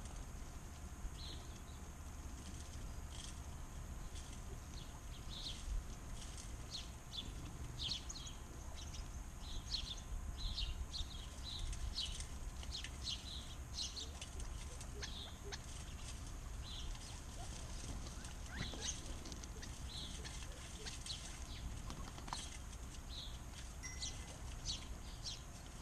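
Backyard birds chirping: many short, high chirps in quick succession, busiest through the middle, over a steady low rumble.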